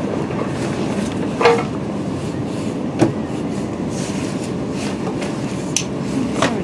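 Interior running noise of a Class 350 Desiro electric multiple unit on the move: a steady rumble of wheels on rail, broken by a few sharp knocks, one about a second and a half in, one at about three seconds and one near the end.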